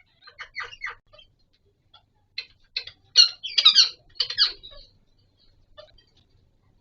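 Green ringneck parakeets giving short, squeaky chattering calls in a few clusters, the loudest run about three to four and a half seconds in, then only a few faint chirps.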